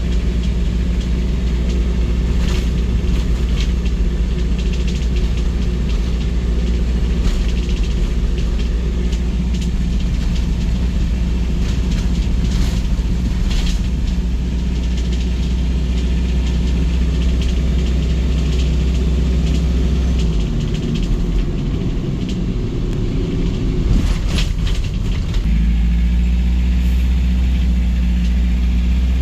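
A machine running with a steady low hum, which drops away about twenty seconds in and comes back about five seconds later, with a few light clicks or taps scattered over it.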